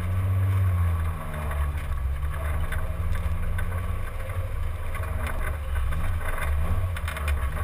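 Rear-mounted four-cylinder engine of a Simca 1000 rally car running at low revs as the car rolls slowly forward, its pitch wavering slightly. A few light clicks come near the end.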